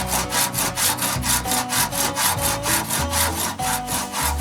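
Saw cutting through a very hard piece of wood in quick, even strokes, several a second.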